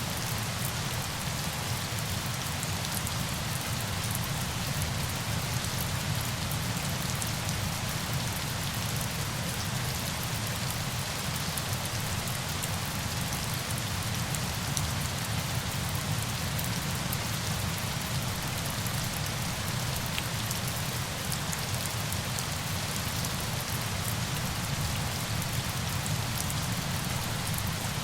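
Steady rain falling on a surface: an even hiss with a fine patter of drops and a low rumble underneath, unchanging throughout.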